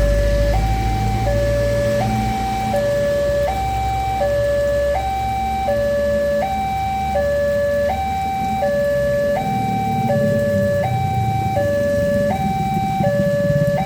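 Electronic warning alarm of a railway level crossing sounding a steady two-tone high-low pattern, each tone about three-quarters of a second, over a low engine rumble; it signals that a train is approaching and the barrier is closing.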